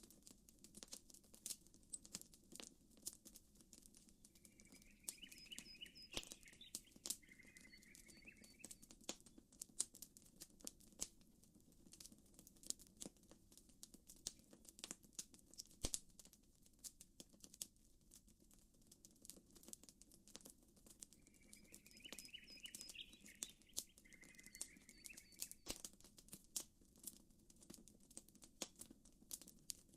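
Faint campfire crackling: irregular sharp pops and snaps from burning wood. A bird calls twice, about sixteen seconds apart, with the same chirping call each time.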